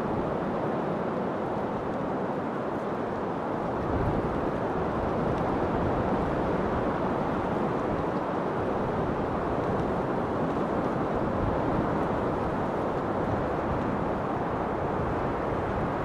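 Steady rushing wind noise, dull and low, swelling and easing a little.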